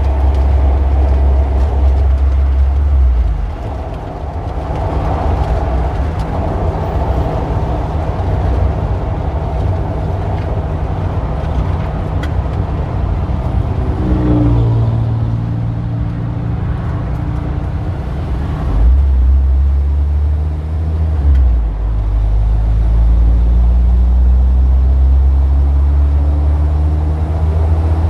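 Street traffic: a steady rumble of car engines and tyres. A heavy low engine drone comes close at the start and again in the second half, and engines rise in pitch as vehicles pull away, about halfway through and again near the end.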